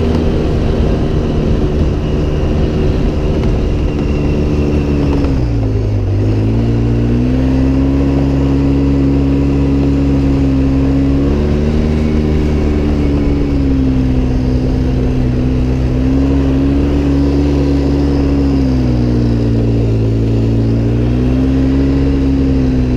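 Off-road vehicle engine running steadily under way, its pitch dropping sharply about five seconds in and climbing back, then easing down and up again a couple more times as the throttle changes.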